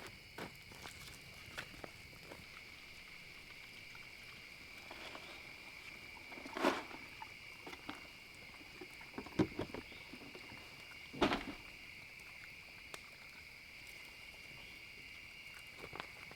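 Steady high chorus of insects trilling, with scattered footsteps through dry leaves and sticks cracking and knocking. There are three louder snaps or knocks in the middle, typical of firewood being gathered.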